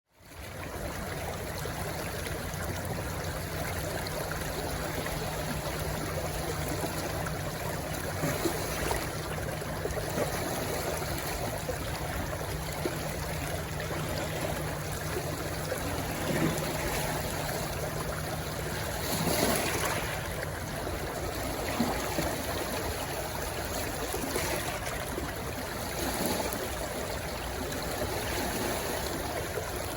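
Rushing stream water splashing and gurgling in a steady wash where it runs into the sea, with a few brief louder surges. It fades in over the first second.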